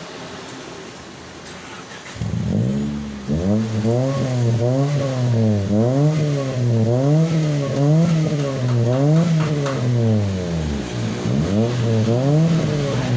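Honda Stream's engine breathing through an HKS racing exhaust: a low idle, then from about two seconds in it is revved over and over, each quick rev rising and falling in pitch about once a second, with a brief drop back near the end before a few more revs.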